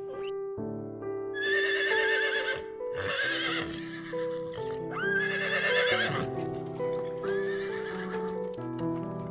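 An animal giving four high, wavering whinny-like calls, each about a second long, over steady background music.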